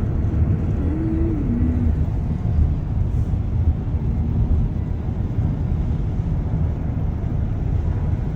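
Car in motion: a steady low rumble of engine and road noise.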